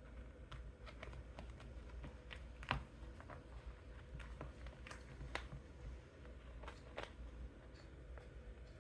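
Faint, irregular light clicks and taps from a kitten playing with knit shoes, its claws and paws catching on them, with one louder tap about two and a half seconds in.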